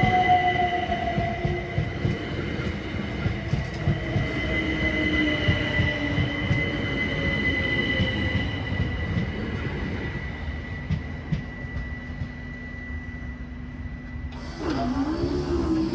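Train passing over a level crossing: a steady high-pitched wheel squeal over the rumble and clatter of the wheels, with a whine falling slowly in pitch. The rumble eases off after about ten seconds, and near the end a different wavering tone sets in.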